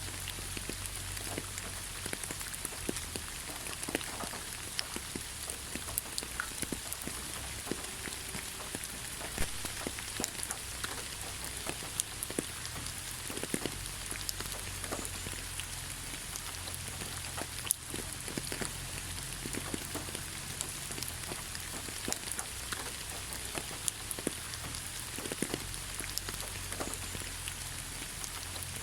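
Steady rain falling on leaves: an even hiss dotted with many irregular drips and taps of individual drops, over a faint low rumble.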